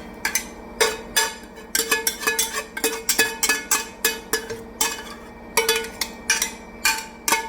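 A metal utensil clinking and scraping against a pan as mushrooms are stirred through a sauce, with about two or three ringing strikes a second.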